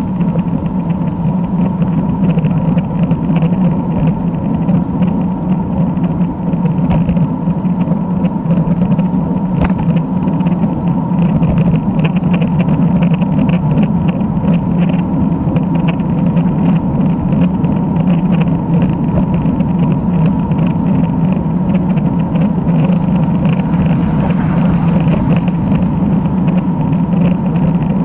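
Steady road and wind noise from riding a road bike, a continuous rumble without speech or music.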